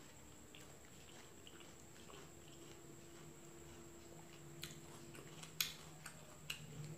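Faint close-up chewing and wet mouth sounds of someone eating by hand, with a few sharper clicks in the second half.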